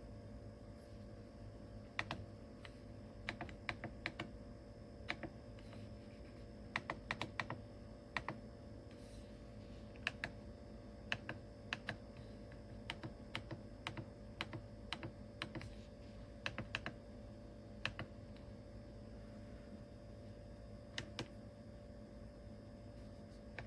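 Irregular light clicks and taps, some in quick runs of two or three, over a faint steady hum.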